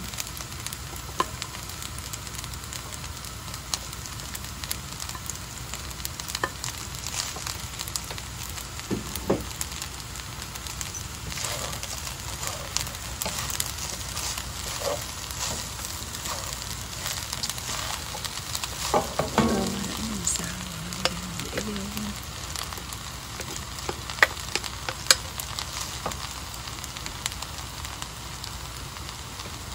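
Fried rice with Chinese sausage, bacon and egg sizzling steadily in a nonstick pan, stirred and turned with a wooden spatula. Scattered taps and scrapes of the spatula on the pan come through, the loudest about 19 seconds in.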